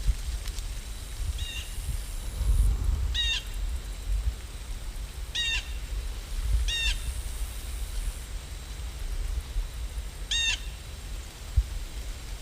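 A bird calling: five short calls spaced a few seconds apart, over a steady low rumble.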